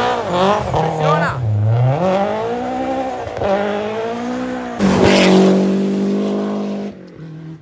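Rally car engine revving hard, its pitch rising and falling several times. About five seconds in it jumps louder and holds at steady high revs, then drops away near the end.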